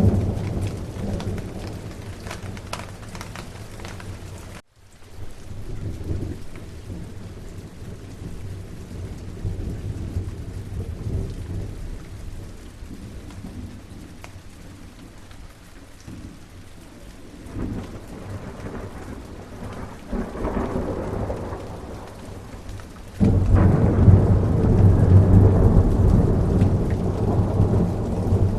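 Steady rain with rolling thunder. A loud low rumble at the start fades away, softer rumbles swell a few times, and a loud rumble cuts in suddenly near the end. The sound drops out for an instant about five seconds in.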